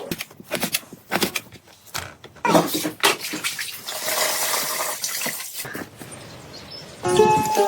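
Water splashing and being poured, with scattered knocks and clatter; plucked-string music starts near the end.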